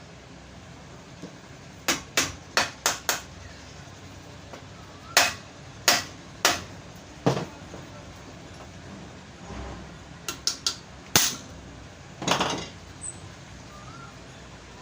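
Hammer taps on a pedestal fan motor's bearing, knocking it into place: sharp separate strikes in small groups, about a dozen in all, with a longer rougher knock near the end.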